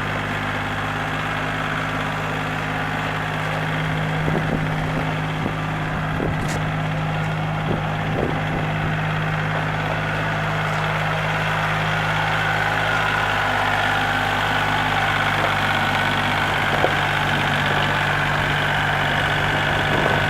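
Kubota L2250 tractor's diesel engine idling steadily, with a few light clicks about four to eight seconds in.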